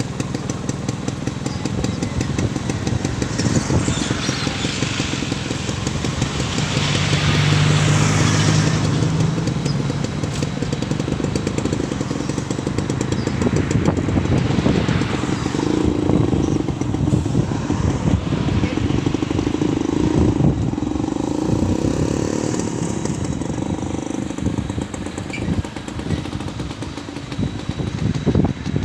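Diesel engine of an amphibious backhoe excavator running, rising under load about a quarter of the way in and shifting pitch again in the middle.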